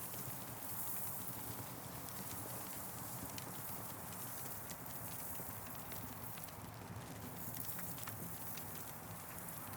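Campfire crackling: irregular sharp pops and snaps over a steady hiss, which swells in its upper register twice, about a second in and again about seven seconds in.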